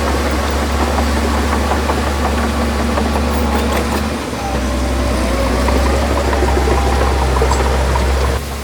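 Heavy earthmoving machine's diesel engine running steadily with a deep drone. The drone dips briefly about four seconds in and drops off sharply near the end.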